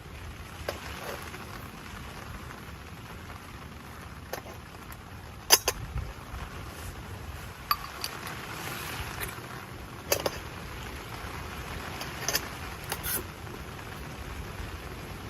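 Steady rain with a low wind rumble, broken by a handful of sharp clicks or knocks, the loudest about five and a half seconds in.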